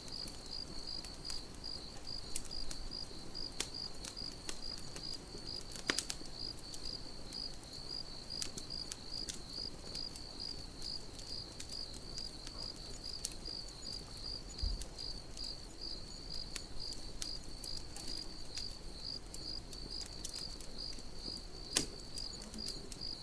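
Cricket chirping steadily at about four pulses a second, over a campfire crackling with scattered sharp pops. The loudest pops come about six seconds in and near the end.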